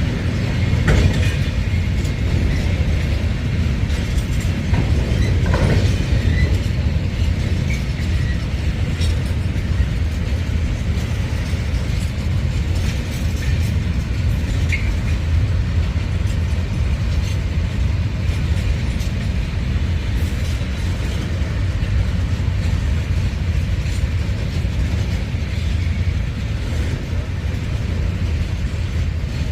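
Diesel train running: a steady low rumble of engine and wheels on rail, with scattered clicks and a few brief high squeals.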